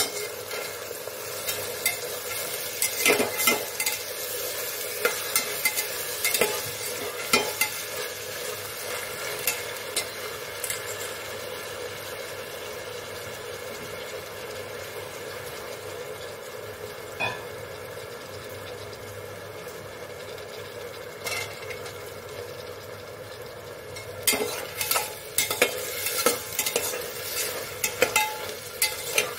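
Black-eyed peas frying with onions and whole spices in a metal pot, sizzling steadily. A metal slotted spoon stirs them, scraping and clinking against the pot for the first several seconds and again near the end, with a quieter stretch of plain sizzling in between.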